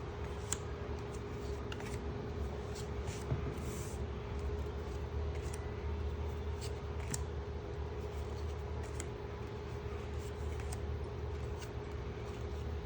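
Trading cards being handled and flipped through, with small scattered clicks and snaps of card edges every second or so, over a steady low electrical hum.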